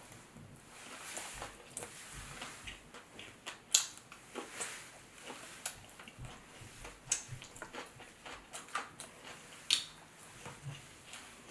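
Crab shells cracking and snapping as crab legs are broken open by hand, with scattered smaller clicks from shell pieces and eating, two cracks louder than the rest at about four seconds and near the end.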